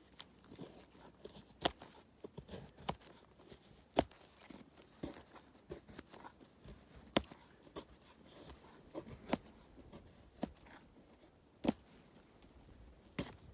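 Small dry balsam fir twigs snapping, an irregular run of sharp cracks every second or two with faint rustling between.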